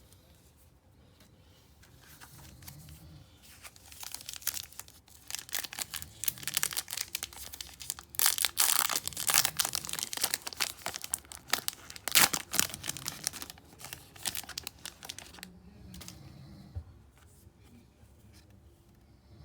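Foil Yu-Gi-Oh booster pack wrappers being torn open and crinkled. The dense crackle starts a few seconds in, is loudest midway, and dies down near the end.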